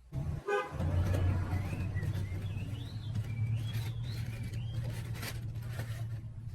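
Win 100cc motorbike's small single-cylinder engine starting up suddenly and settling into a steady idle.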